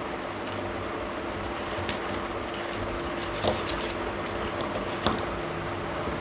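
Small metal parts of a gas stove lighter being handled and worked with hand tools: scattered scraping and rubbing with light clicks, two sharper clicks about three and a half and five seconds in, over a steady low hum.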